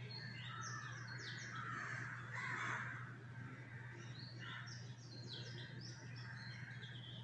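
Birds calling: two runs of quick, high, falling chirps, with a harsher call around the middle, over a steady low hum.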